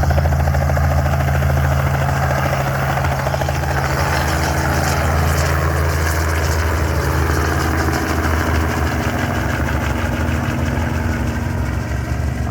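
Helicopter running close by: a steady, loud engine drone with the rapid beat of the rotor blades.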